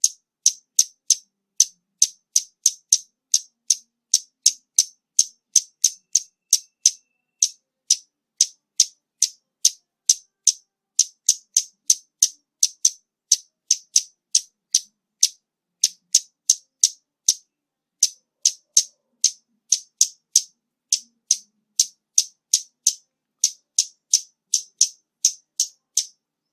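Scarlet-backed flowerpecker calling: a long series of sharp, high-pitched ticking notes, a little over two a second, with a brief break about seventeen seconds in.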